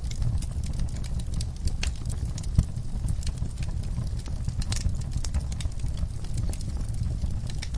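Wood fire burning in a fireplace: irregular crackles and snaps over a steady low rumble of the flames, with one louder pop about two and a half seconds in.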